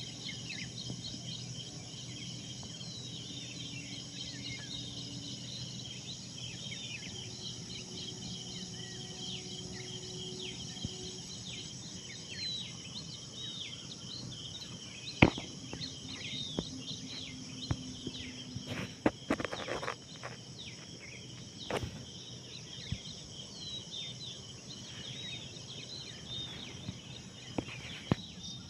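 Dawn chorus of many small birds chirping continuously over a steady outdoor background hum. A few sharp clicks or knocks break in, the loudest about halfway through, with a cluster of them shortly after.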